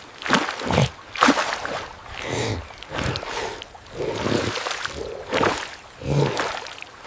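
Water splashing and sloshing in a string of bursts roughly a second apart, mixed with short animal cries.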